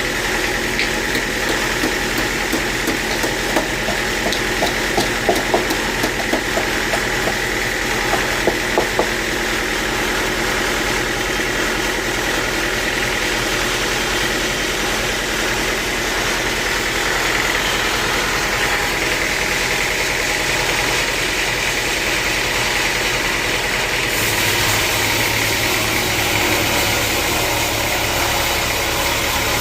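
Sawmill machinery running steadily: a constant motor hum with a high steady whine. A few short knocks come in the first third, and the low hum grows stronger about three-quarters of the way through.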